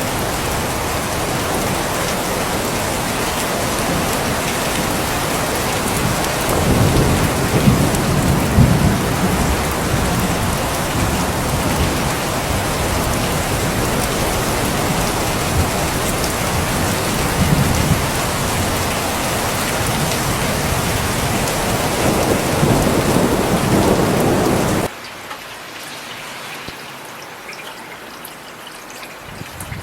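Steady heavy rain with low rolling thunder swelling twice, about a quarter of the way in and again near the end. A few seconds before the end the sound cuts off suddenly to much quieter, lighter rain.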